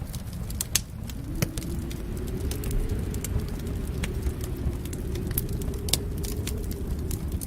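Wood fire crackling, with irregular sharp pops and snaps over a steady low rumble that swells about a second in.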